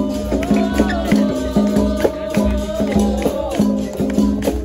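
Capoeira roda music. A berimbau plays a repeating low note with its caxixi rattling, under hand percussion strikes and a sung chant with wavering pitch.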